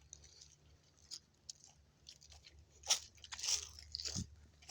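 Footsteps crunching on a dirt trail, a faint irregular scatter of crunches and crackles, loudest about three seconds in.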